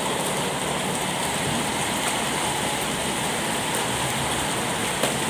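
Heavy rain falling steadily, an even hiss of water on the roof and the wet floor.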